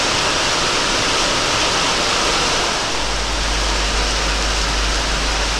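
Heavy rain pouring down steadily, a dense even hiss. About three seconds in, a steady low rumble joins it.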